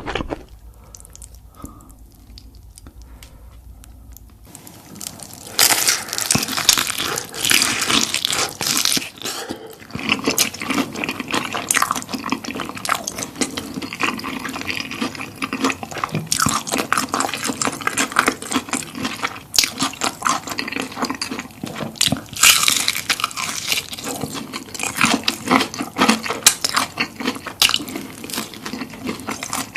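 Close-miked eating of fried chicken: dense, irregular crunching and wet chewing and smacking. It is quieter for the first few seconds, then loud and continuous.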